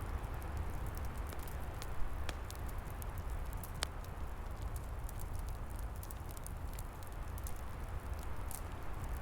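Wood fire crackling, with scattered sharp pops (two stronger ones about 2 and 4 seconds in), over a steady low rush of wind.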